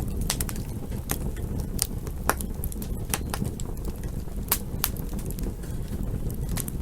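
Wood campfire crackling: irregular sharp pops and snaps, a few every second, over a steady low rumble of the burning fire.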